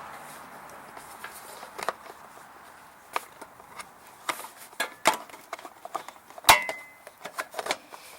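Snowblower parts being fitted back together by hand: scattered small plastic and metal clicks and knocks, with one loud sharp click about six and a half seconds in that rings briefly.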